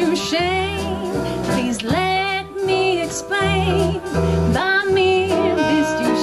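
Swing band playing with a woman singing over it, her held notes wavering with vibrato above steady bass notes.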